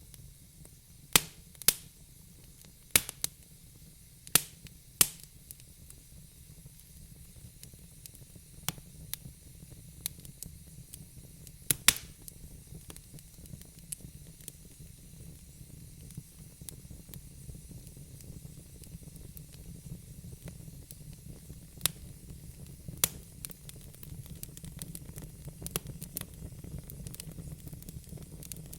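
Wood fire crackling in a fireplace: irregular sharp pops and snaps over a steady low rumble of the flames. A handful of loud pops come in the first few seconds, then smaller, scattered ones.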